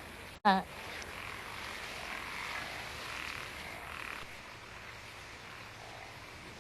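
Frogs croaking over a steady faint hiss. About half a second in, the sound cuts out for an instant and is followed by one short, loud, wavering croak.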